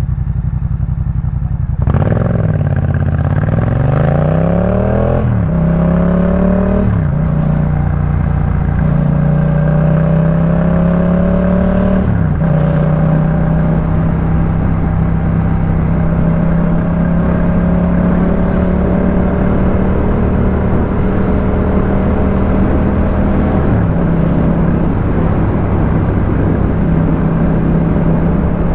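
Yamaha MT-07 parallel-twin engine breathing through a Jeskap K4 full aftermarket exhaust, pulling hard about two seconds in and rising in pitch through several quick upshifts, then running at a steady pitch while cruising, with another gear change near the end.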